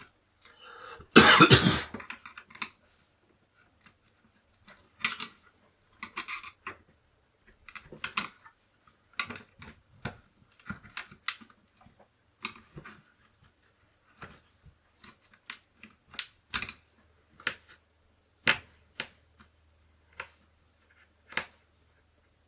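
Keys of a Commodore 64 keyboard pressed one at a time, irregular separate clicks, testing which keys give faulty input. About a second in there is a loud, short noisy burst.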